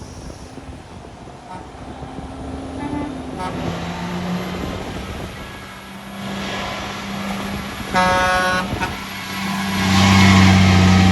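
Heavy truck engine running on a steep hill and growing louder as it comes near, loudest near the end. A short horn toot sounds about eight seconds in.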